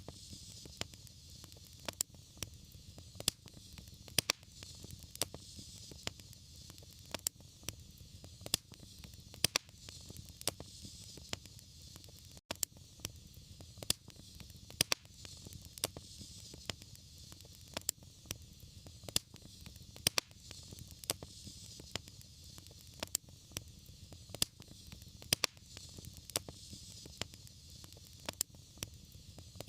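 Wood fire crackling, with frequent irregular sharp pops and snaps over a soft, steady rush of burning flame.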